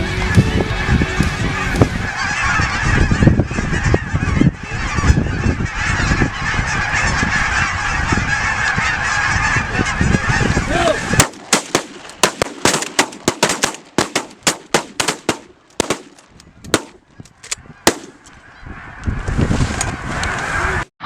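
A large flock of geese honking loudly and continuously. About eleven seconds in it gives way to a rapid volley of many shotgun blasts from several guns firing over roughly seven seconds, and honking rises again near the end.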